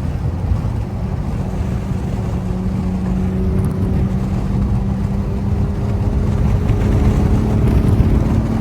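Honda Accord V6 engine running while the car is driven, its pitch and loudness rising slowly as it gently accelerates, over steady road noise.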